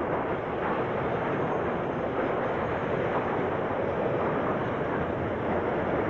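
A long freight train rolling past: a steady, even rumble of wagons on the rails.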